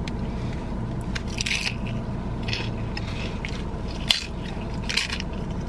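Close-miked eating: biting and chewing a fried cream cheese rangoon, with short mouth and food noises about once a second and a sharp click near the end. The car's air conditioning runs under it as a steady low hum.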